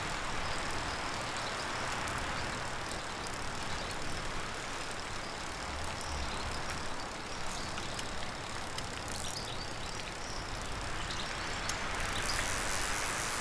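Steady rushing noise with scattered faint ticks, growing brighter and hissier near the end.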